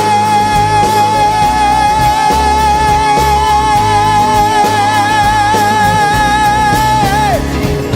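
Live blues-rock band playing, with guitars, bass, keys and drums. A single high note is held with vibrato over the band, then slides down and stops near the end.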